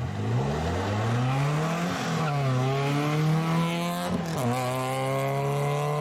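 Hillclimb race car engine accelerating hard at full throttle. Its pitch climbs, drops sharply at an upshift about two seconds in and again about four seconds in, then climbs again.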